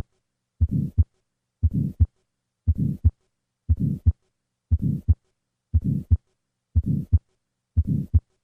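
Heart sounds of tetralogy of Fallot: a systolic ejection murmur, the right ventricular outflow murmur, filling the gap between the first and second heart sounds. It repeats at about one beat a second, eight beats in all.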